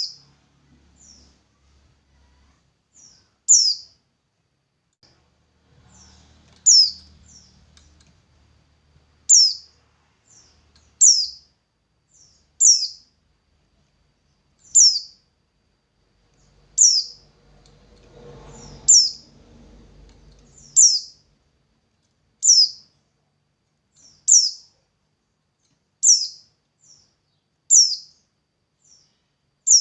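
A songbird repeating a single short, very high chirp that drops sharply in pitch, about once every two seconds, with softer little notes in between.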